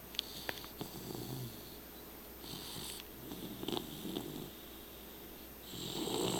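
Red-nose pit bull snoring in her sleep: about four noisy snoring breaths a second or two apart, the loudest near the end.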